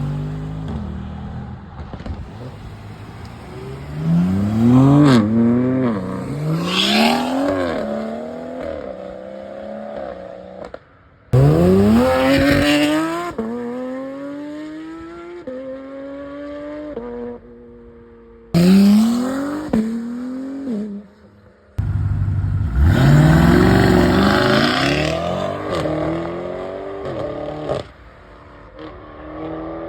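Several high-performance sports cars accelerating hard away one after another, each engine revving up in pitch and dropping back at every upshift. The sound cuts abruptly from one car to the next a few times.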